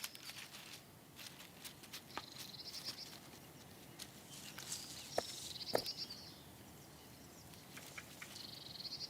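Quiet woodland ambience: a small bird's rapid, high trilling call three times, with scattered small ticks and rustles like footsteps in leaf litter.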